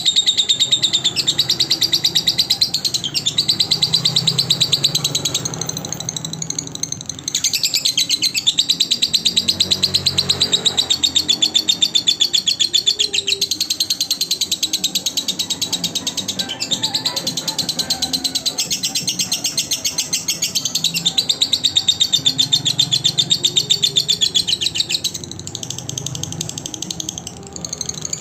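Lovebird singing in long, fast runs of high chattering chirps, with a brief break about a quarter of the way in and another shorter lull near the end.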